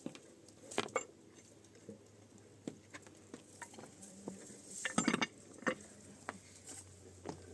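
Scattered light clinks and knocks of objects being handled, with the loudest cluster of clatter about five seconds in.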